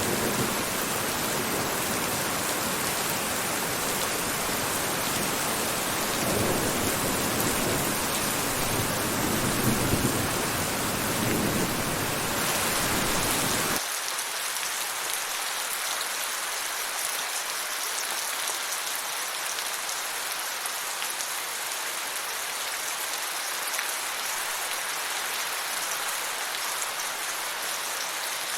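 Steady rain falling, an even hiss of drops with a low rumble swelling under it in the first half. About halfway through, the sound switches abruptly to a thinner, hissier rain with the low end gone.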